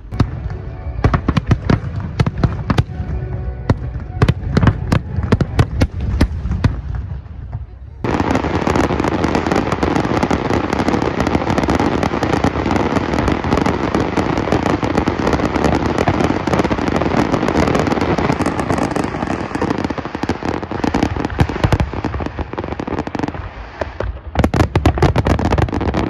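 Large aerial fireworks display: many separate shell bursts going off in quick succession. About eight seconds in, it turns into a dense, unbroken barrage, with separate loud bangs again near the end.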